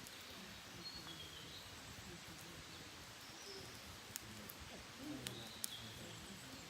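Faint wild birdsong, a few short high chirps, over a quiet outdoor hush; in the second half a wood campfire pops with a few sharp crackles.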